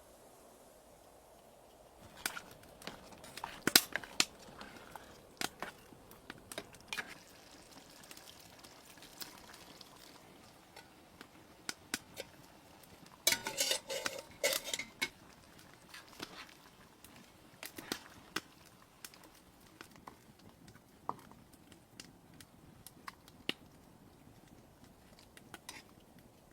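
Scattered light clinks and knocks of things being handled, with a denser clatter about halfway through.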